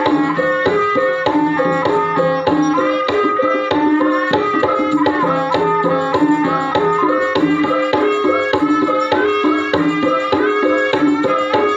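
Gamelan music accompanying an ebeg dance: pitched metal instruments play a fast, repeating stepwise melody over steady hand-drum beats.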